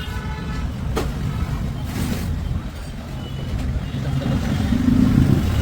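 A motor vehicle's engine rumbling low and steady, swelling louder near the end, with a couple of sharp clicks early on.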